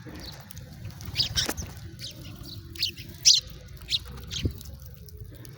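House sparrows chirping: about half a dozen short, separate chirps, the loudest a little past three seconds in, over a low steady background rumble.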